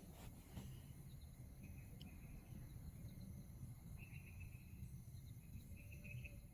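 Faint insects chirping in short trills, a few times, over a steady low rumble.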